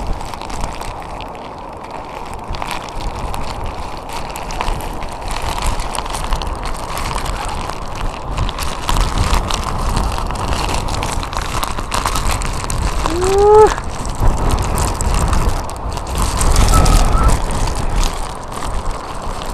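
Typhoon-force wind buffeting a sponge-covered microphone worn inside clothing: a steady rush with heavy low gusts, strongest about three-quarters of the way through. A short rising voice exclamation about two-thirds of the way in.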